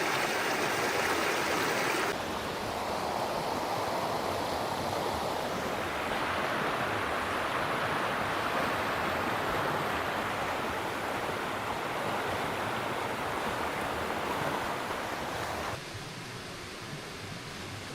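Steady rush of running water. It changes character abruptly about two seconds in, and drops quieter near the end.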